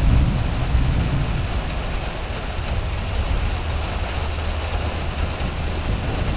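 Heavy rain hissing through a thunderstorm under a low rumble of rolling thunder, strongest in the first second or so and then easing off.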